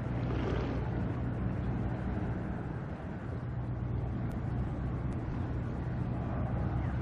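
Steady low engine drone under a constant wash of broad noise, with a brief swell of hiss in the first second.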